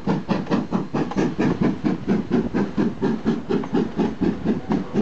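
Passenger train passing at close range, with a fast, even beat of about four pulses a second, each with a hissing edge.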